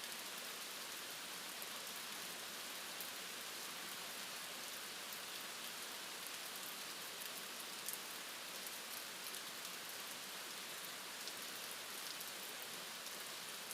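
Steady rain falling: an even hiss with a few faint drop ticks and one slightly louder patter about eight seconds in.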